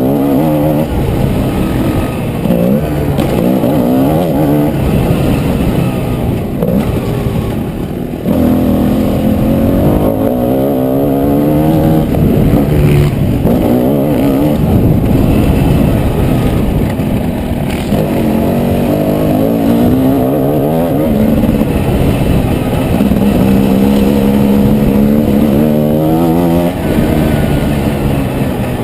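Motocross motorcycle engine at full work on a dirt track, its pitch rising under throttle and dropping back again and again, as on the straights and into the corners.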